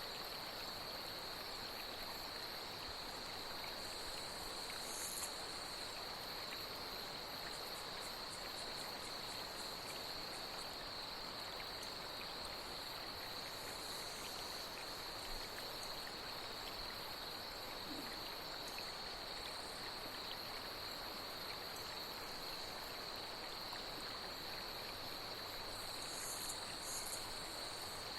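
Steady chorus of night insects holding one unbroken high tone over the even hiss of flowing water, with a few brief higher chirps about five seconds in and again near the end.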